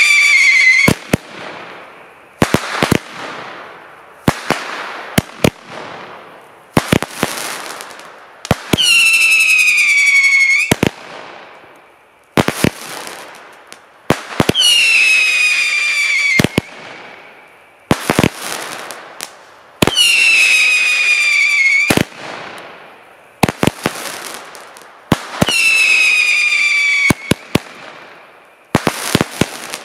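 Weco 'Salsa' 36-shot fireworks battery firing: sharp shots, each trailing off in a fading hiss of sparks, broken about every five to six seconds by a loud whistling shot whose whistle falls in pitch over about two seconds.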